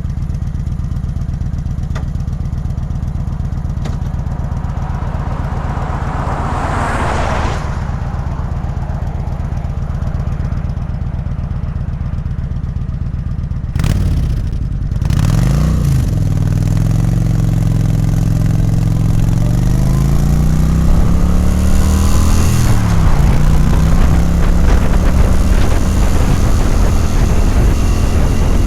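Kawasaki Vulcan 900's V-twin engine running steadily at low revs, with a rushing sound swelling and fading about seven seconds in. About halfway through the engine revs up and the bike pulls away, its pitch climbing, dropping at a gear change, then climbing again as it gets louder.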